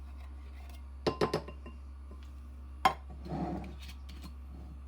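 A kitchen utensil knocking and clinking against a bowl: a quick run of about four taps about a second in, then one sharper clink near the middle, as thick canned soup is scraped and knocked off a spatula into the bowl.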